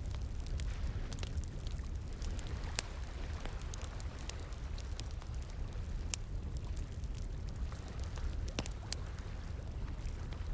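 Wood fire crackling, with irregular sharp pops scattered throughout, over the steady sound of flowing water.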